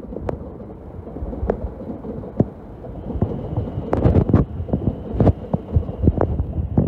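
Train rolling past close by, its wheels knocking over rail joints and points in irregular low thumps, with a faint steady high whine from about three seconds in.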